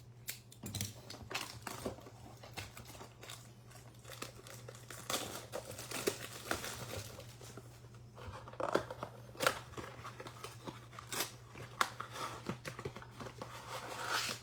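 Plastic shrink wrap crinkling and tearing as a sealed blaster box of baseball cards is unwrapped and opened, with irregular crackles and sharp clicks of the wrapper, cardboard and foil packs being handled. A low steady hum sits underneath.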